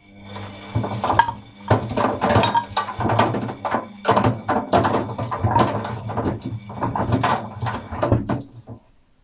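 Atlant washing machine tumbling a load of paint rollers and brushes: a steady motor hum under many irregular knocks and clatters from the load in the drum. The run of knocking stops near the end.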